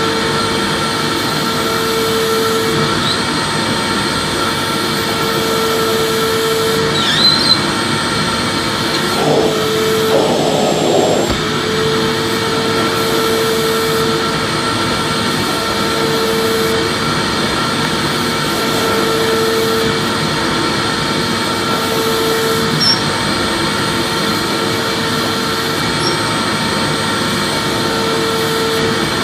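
Vacuum cleaner running steadily: a dense rushing hiss with a steady motor whine, and a lower hum that swells and fades every few seconds.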